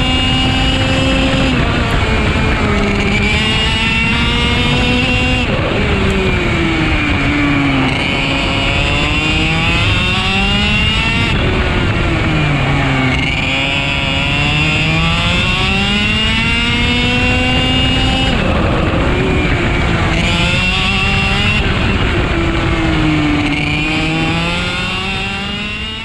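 IAME two-stroke kart engine heard onboard at racing speed, its revs climbing steadily along each straight and dropping sharply into the corners about five times. The sound fades out in the last two seconds.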